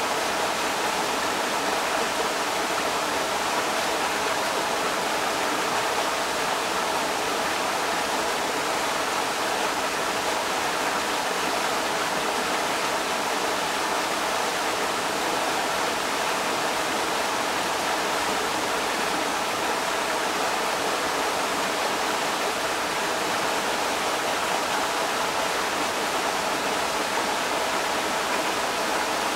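Creek water rushing steadily over rocks, a continuous even hiss-like flow with no breaks.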